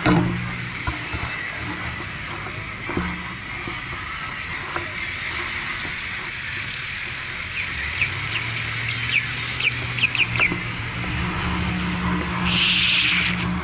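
Car engine running with a steady low hum that grows louder about eight seconds in, with a few short high squeaks in between and a brief hiss near the end.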